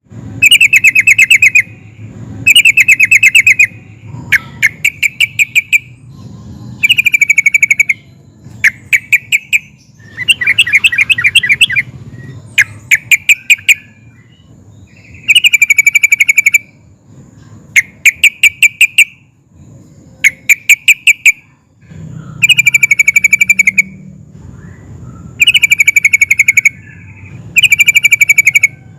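Yellow-vented bulbul (trucukan) singing in about a dozen loud phrases of rapid chattering trills. Each phrase lasts about a second, with short pauses between them.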